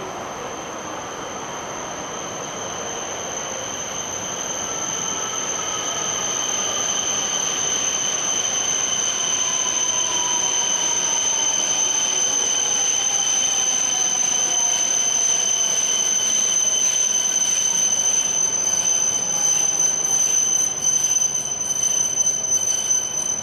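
E5 series Shinkansen train pulling in and braking to a stop. It grows louder as it nears, with a high steady squeal over the running noise and a whine that falls in pitch as it slows. The squeal cuts off as the train halts, right at the end.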